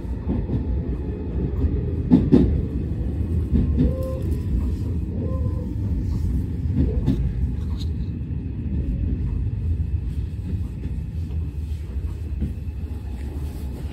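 Hanshin Railway electric train running, heard from inside the passenger car: a steady low rumble from the wheels and running gear, with a few louder knocks about two seconds in and again about seven seconds in.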